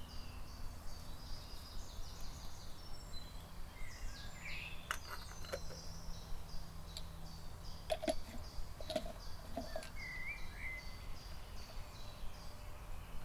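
Birds singing: a steady run of short high chirps repeated over and over, with a few other calls, over a low steady rumble. A few sharp clicks and knocks come in near the middle.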